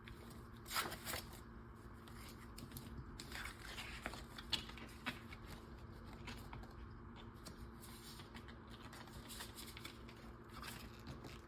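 Faint rustling and crinkling of paper cash, envelopes and binder pages being handled, with a few soft taps and clicks scattered through.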